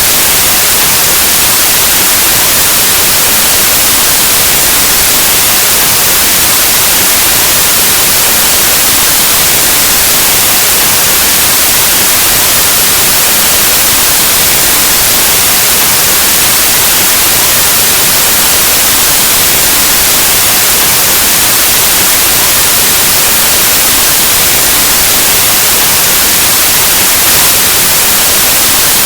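Loud, steady white noise: an even, unchanging hiss like analog TV or radio static.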